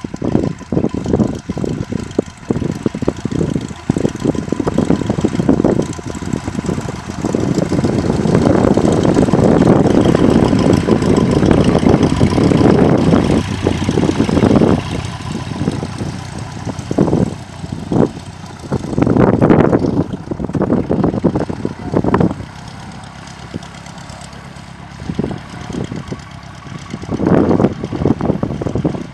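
Cessna 150's engine and propeller running, heard from inside the cockpit through a head-mounted camera, with an uneven, gusting rumble that swells for several seconds around the middle and comes in shorter surges later.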